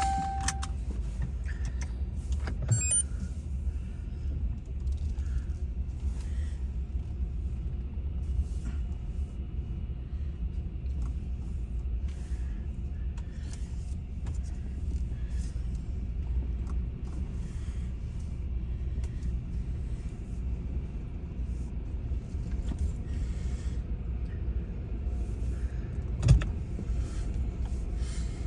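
Steady low rumble of a car heard from inside the cabin, with a click about three seconds in and a single thump near the end.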